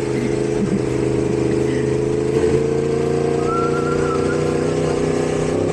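Motorcycle engine running steadily on the move, with a constant rush of wind and road noise. A faint thin whistle-like tone comes in for about a second near the middle.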